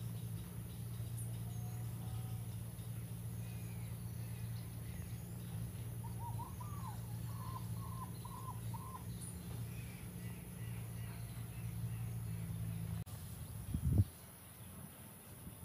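Garden ambience: a steady low hum under scattered faint bird calls. Partway through, a bird gives a quick run of about six short, clear notes. Near the end the hum cuts off abruptly and a brief rustle follows.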